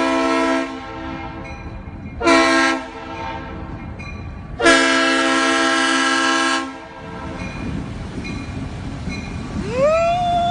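A loud horn sounding three times: a blast that stops just after the start, a short blast about two seconds in, and a long blast of about two seconds, over a low rumble. Near the end a high tone rises and then holds.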